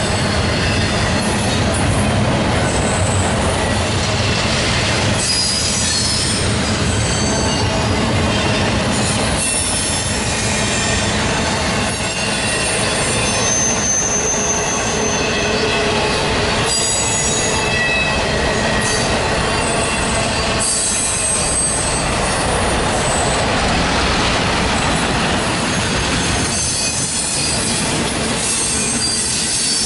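Double-stack intermodal freight cars rolling past at steady speed: a loud, even rumble and rattle of steel wheels on rail, with short high-pitched wheel squeals now and then.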